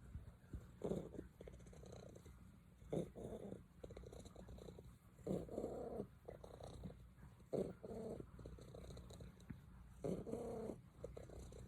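Domestic cat purring: a continuous low rumble that swells louder every two to three seconds, giving an uneven, "misfiring" purr.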